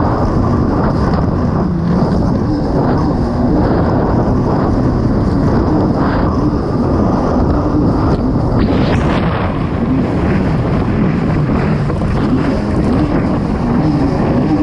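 Kawasaki STX 160 jet ski's four-stroke engine running hard at speed, its note rising and falling a little with the throttle, with wind noise on the microphone.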